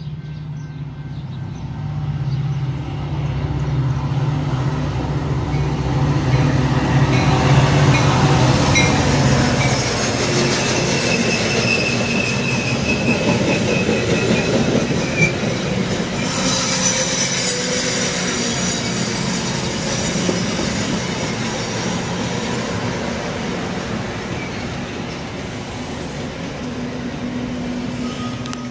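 Metra commuter train of bi-level gallery cars passing a station without stopping: a low diesel drone builds and peaks as the head end goes by, then the rolling rumble of the cars with wheel and rail squeal. It fades near the end.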